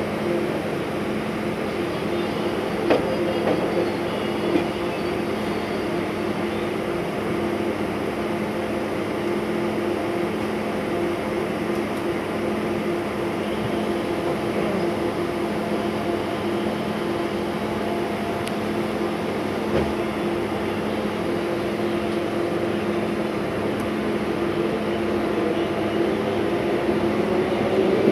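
Steady electrical hum of a standing electric multiple unit (EMU) local train, with a couple of light knocks a few seconds in. Near the end, an approaching EMU local's motor whine rises and grows louder as it draws alongside.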